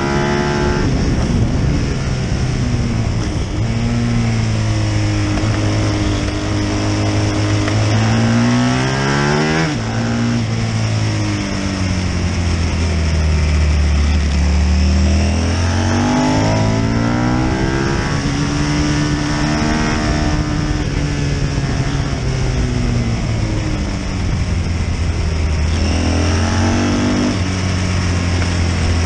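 Britten V1000's V-twin racing engine at race pace, its note climbing and dropping again and again as it runs through the gears, over a steady rush of wind.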